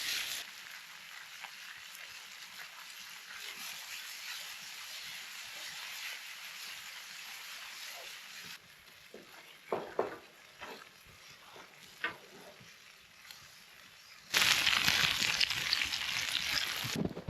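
Food frying and sizzling in a hot pan over a campfire, with a few light knocks midway. The sizzle gets much louder a little after two-thirds of the way through.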